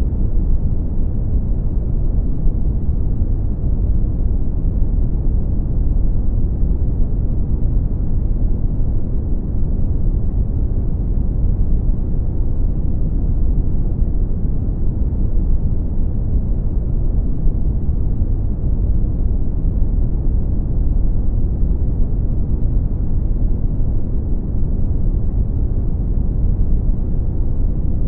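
Brown noise: a steady, deep rushing hiss, strongest in the bass and dull above, with no change in level.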